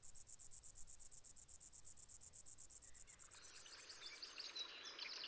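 A cricket-like insect chirps in fast, even, very high pulses, about ten a second, and stops abruptly near the end. In the last two seconds a fainter outdoor background with short high chirps takes over.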